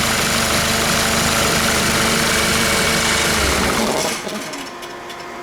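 Hyundai D4CB 2.5-litre four-cylinder diesel engine idling steadily during an oil pressure check, then shut off about four seconds in, its note falling as it runs down to a stop.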